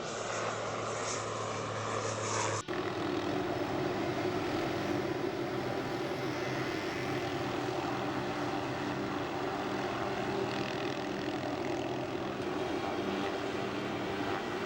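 Aircraft engines running steadily. About two and a half seconds in, the sound cuts abruptly to a different, steadier engine drone.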